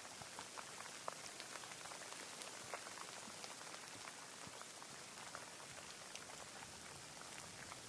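Steady rainfall: an even hiss of rain with many separate drops ticking and pattering close by.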